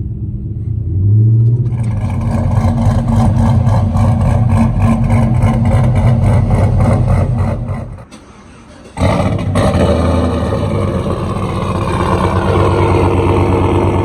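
Cammed 5.3 V8 of a Chevy Silverado running through a Corsa exhaust: a choppy, pulsing exhaust note that swells as it accelerates about two seconds in, cuts out abruptly for about a second, then comes back and climbs again near the end.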